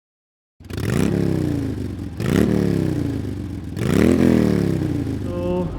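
Triumph Trident 660's inline three-cylinder engine revved three times, each blip climbing quickly and then falling back toward idle.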